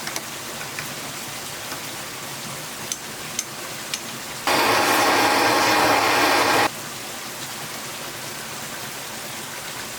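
Steady rush of running water, with a few light clicks. A loud hiss starts abruptly about four and a half seconds in and cuts off about two seconds later.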